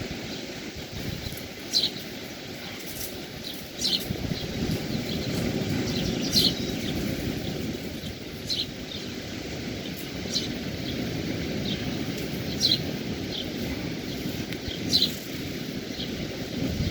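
Birds giving short, high chirps that drop in pitch, about one every one to two seconds, over the steady low rush of the sea's surf.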